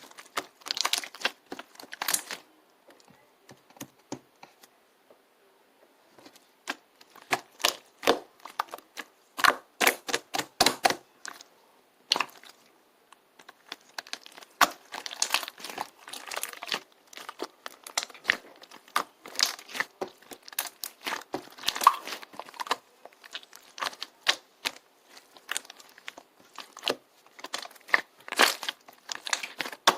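Irregular clicking, crinkling and tearing sounds from something being handled close up, in clusters with a short lull a few seconds in.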